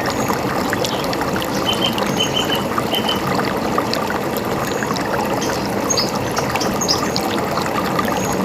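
River water running and gurgling steadily, with a few short, high bird chirps over it.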